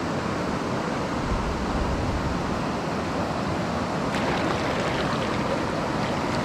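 Mountain stream water running and rushing steadily, an even noise of flowing water.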